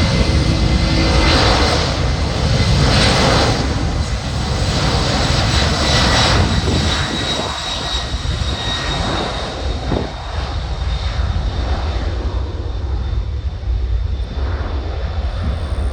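Jet airliner engines at close range: a loud, deep rumble with a high steady whine on top, the whine fading and the noise slowly dropping over the last several seconds.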